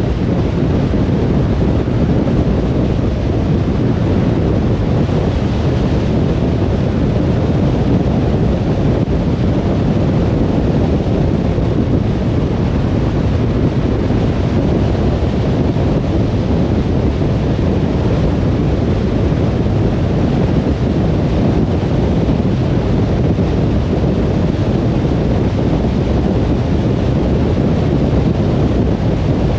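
Steady road noise of a car driving: a low rumble of tyres and wind that holds an even level throughout, with no distinct events.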